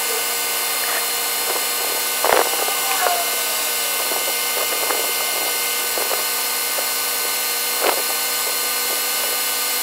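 Mitsubishi Lancer 4G18 four-cylinder engine idling as it warms up, its sound sped up eight times into a steady high-pitched whine and hiss. A few sharp clicks come through, the loudest about two seconds in.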